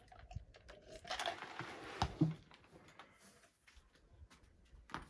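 Light handling noise in a small room: scattered small clicks, a brief rustle about a second in, and a couple of sharper knocks around two seconds in.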